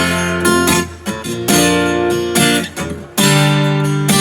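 Acoustic guitar strumming chords, with a new chord struck about every second and a half: an instrumental gap between sung lines of a song.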